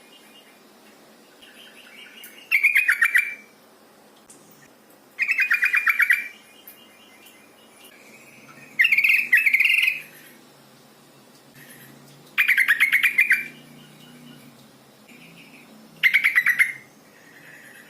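Female yellow-vented bulbul (trucukan) calling: five short bursts of rapid chattering notes, roughly one every three to four seconds, the middle one doubled. Faint thin whistles sound between the bursts.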